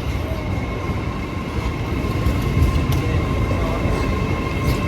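A train moving through a station with a heavy low rumble. Several steady high-pitched tones come in as it runs, and a few sharp clicks sound partway through and near the end.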